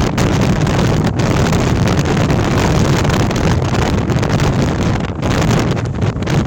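Storm-force wind, at gale strength of 80 to 100 mph, blowing hard across the microphone: a loud, dense, unbroken rush with a heavy low rumble and no letup.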